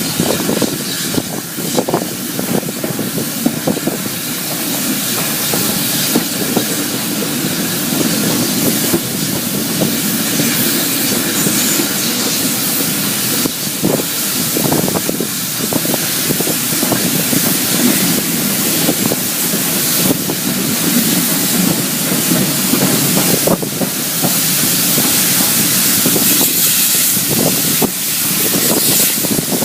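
Steam train on the Bluebell Railway running along the line: a steady rushing hiss with scattered clicks of the wheels over the rails.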